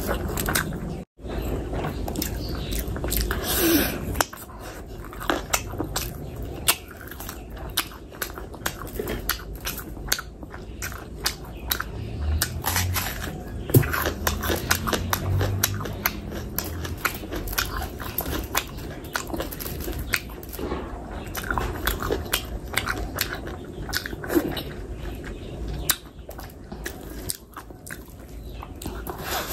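Wet chewing of a mouthful of biryani rice and curry eaten by hand, with many irregular sharp clicks and smacks of the mouth. The sound cuts out briefly about a second in.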